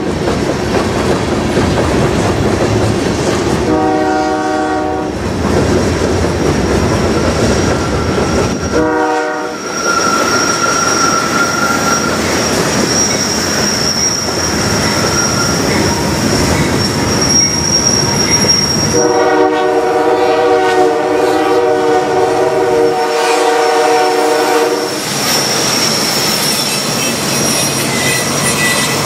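Freight train of covered hopper cars rolling past, wheels clacking over the rail joints, with a thin high wheel squeal between horn blasts. A diesel locomotive air horn sounds several blasts: two longer ones, a short one, and then a long blast of about six seconds roughly two-thirds of the way through.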